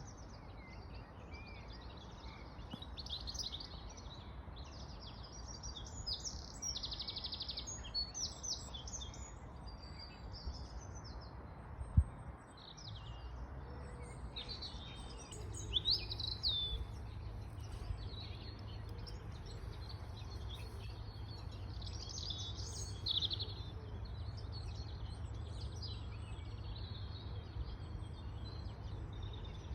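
Wild birds singing and chirping in spring, with many short, overlapping high calls and trills. Beneath them is a low, steady rumble that grows stronger about halfway through, and a single sharp knock comes about 12 seconds in.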